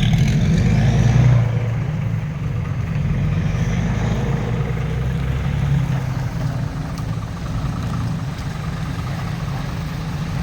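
Dump truck's diesel engine running hard under load, loudest in the first second or so and then holding steady.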